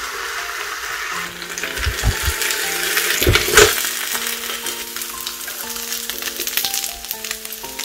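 Chicken burger sizzling and frying on the hot plates of an electric waffle maker, a steady hiss, with a few knocks about two and three and a half seconds in as the appliance is handled. Background music plays over it.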